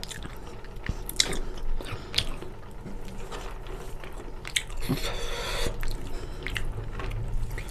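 Close-miked chewing and biting of chicken curry with rice: scattered wet clicks and smacks, with a brief noisy rush about five seconds in.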